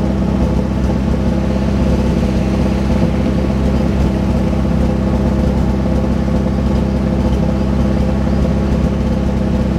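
Off-road 4x4's engine idling close by: a steady, even hum with no revving.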